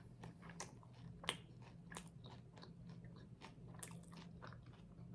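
Faint close-up chewing and biting of food, a scatter of small wet mouth clicks and crunches, over a steady low hum.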